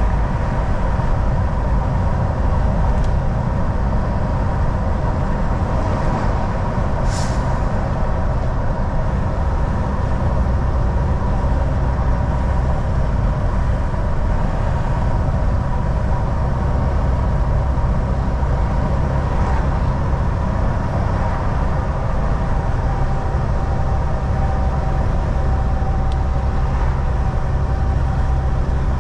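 Volvo VNL 760 semi truck cruising on the highway, heard from inside the cab: a steady low engine drone and road rumble with a constant whine. About seven seconds in there is one brief sharp high sound.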